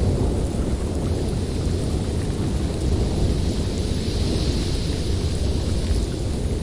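Blizzard wind blowing steadily: a deep, continuous rumble with a higher hiss that swells a little about four seconds in.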